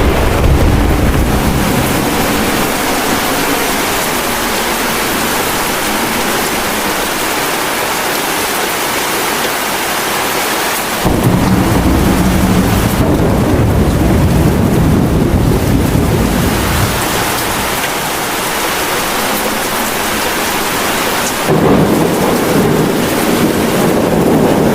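Steady heavy rain with rolling thunder. One rumble comes at the start, another breaks in suddenly about 11 seconds in and fades over several seconds, and a third begins near the end.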